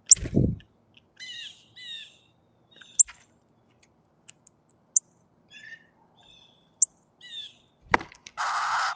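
A baby bird's short chirping calls in falling notes, mixed with sharp clicks and two dull thumps. About half a second of hissing noise comes near the end.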